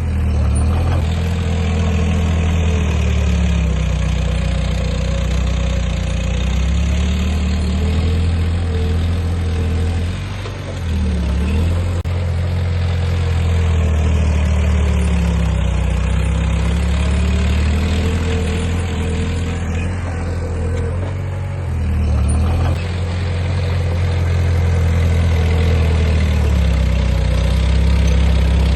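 Heavy diesel engine of earthmoving equipment running steadily and loudly, its pitch rising and falling as the load changes. It drops briefly about ten seconds in and again a little after twenty seconds.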